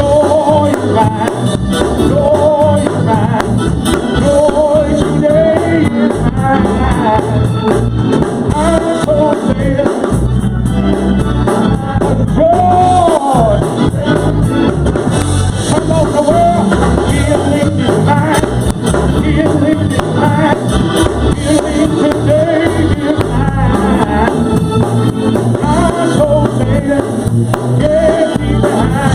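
Gospel praise music: singing over instrumental backing.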